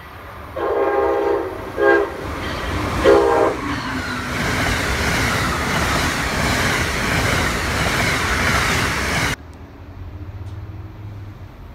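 Amtrak electric-hauled passenger train sounding its horn as it approaches: one long blast and two short ones. It then passes through at speed with a loud, steady rush of wheels and air, which cuts off abruptly about nine seconds in.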